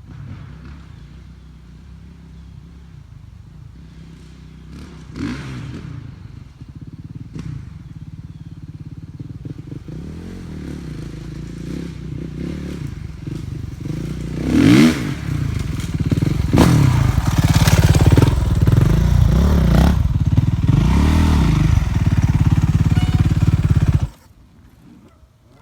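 Dirt bike engine running and revving, with its pitch sweeping up several times as the throttle opens. It grows steadily louder, then cuts off abruptly near the end.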